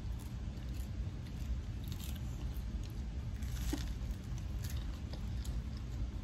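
A person chewing a mouthful of food, with a few short soft clicks over a steady low hum.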